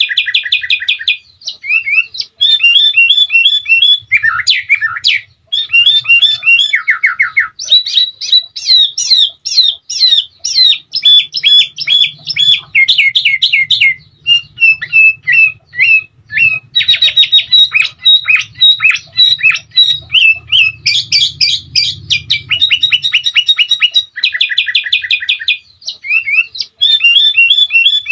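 Sooty-headed bulbul (kutilang) singing a continuous, loud stream of fast trills, runs of repeated chirps and quick up-and-down whistled phrases, with only short pauses between them; a songbird master recording.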